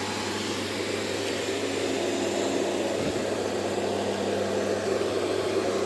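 Electric truck's cab air-conditioning blower running with a steady hum, its filter freshly cleaned of a choking layer of dust.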